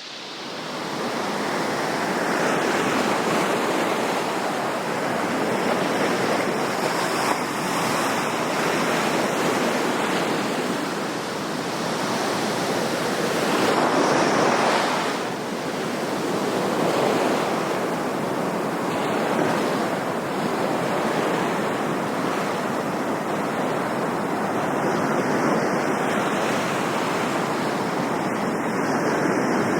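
Ocean surf: a steady rushing of waves washing in, swelling about halfway through and then easing off.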